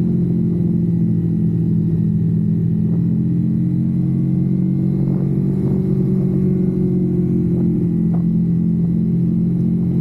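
Kawasaki Versys-X 250's parallel-twin engine running at a steady, unchanging engine speed.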